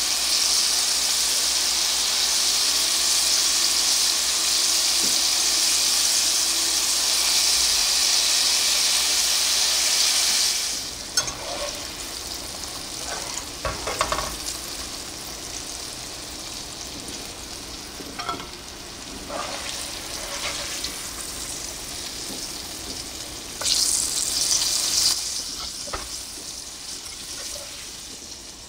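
Breaded pigeon breast chunks deep-frying in hot oil: a loud, steady sizzle that drops suddenly about ten seconds in to a quieter bubbling. After that come scattered clinks of a wire whisk against the pan as the pieces are turned and lifted, and a short louder sizzle near the end.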